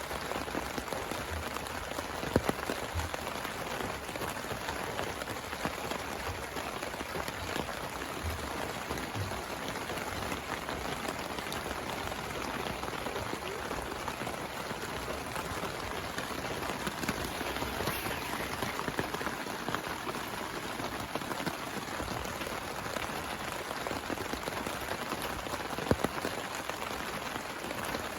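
Heavy rain falling steadily, a dense even patter of drops, with two sharper drip taps, one about two seconds in and one near the end.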